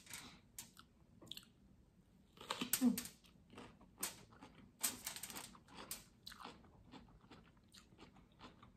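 Close-up eating: biting into and chewing crunchy food, a string of irregular crisp crunches with the loudest ones clustered about three, four and five seconds in.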